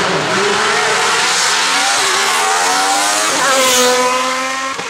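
Hillclimb race car engine at high revs, its pitch climbing as it accelerates. The pitch jumps a little after three seconds, the sound is loudest about four seconds in, and then it fades as the car goes away.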